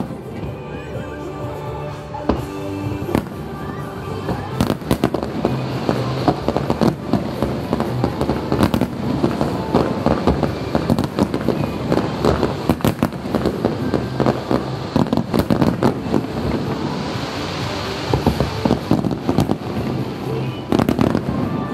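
Fireworks display: scattered shell bursts at first, thickening about four seconds in into a rapid, dense barrage of booms and cracks, with a crackling hiss of falling sparkle effects near the end. Music plays underneath.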